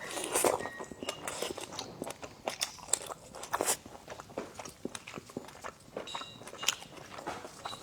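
Eating sounds: biting and chewing a razor clam, with many quick, irregular wet clicks and smacks.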